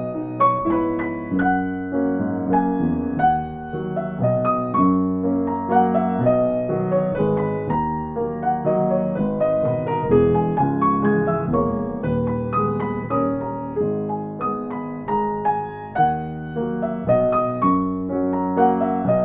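Piano playing a continuous stream of notes, several struck each second, each ringing on and fading.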